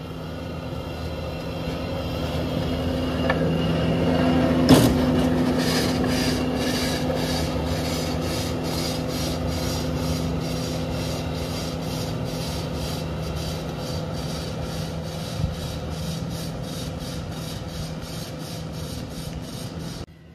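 Skid-steer loader running a CONETEKS forestry mulcher attachment, its engine under steady load while the rotor grinds wood and soil with a rasping sound. There is a sharp knock about five seconds in, and after it the grinding pulses evenly, about twice a second.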